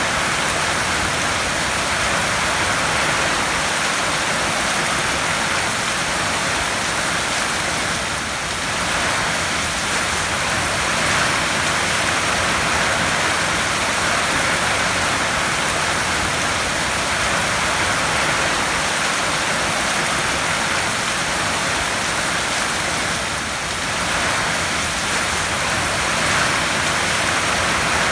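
Heavy rain falling steadily on a tin roof, a dense even hiss that eases slightly twice.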